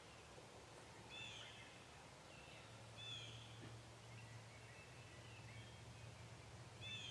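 Near-quiet woods with faint songbird chirps: short, high, downward-curling notes repeated every second or so.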